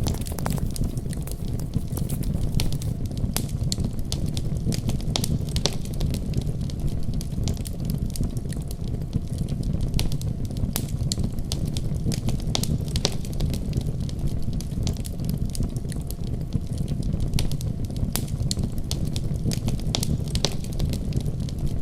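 Wood fire burning in a fireplace: irregular sharp crackles and pops over a steady low rush of flames.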